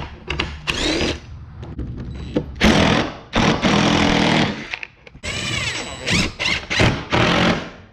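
Cordless drill-driver driving screws into wood, in several bursts in which the motor spins up and winds back down, with short pauses between them.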